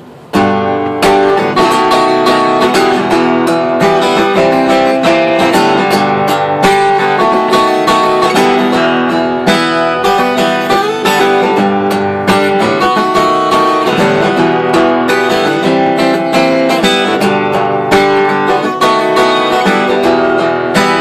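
Acoustic guitar strummed in a steady rhythm: the instrumental intro of a song, starting suddenly about half a second in.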